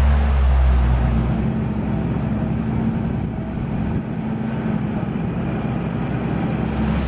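T-150K tractor's diesel engine running steadily, its deep low rumble easing a little about a second in.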